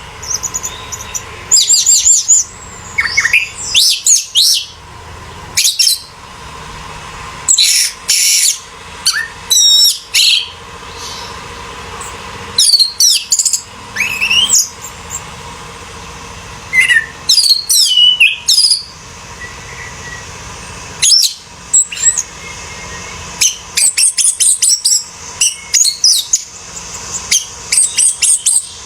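Orange-headed thrush (anis merah) singing loud, fast phrases of varied whistles and rapid pitch-sweeping notes, delivered in bursts with short pauses between them, over a faint steady hum.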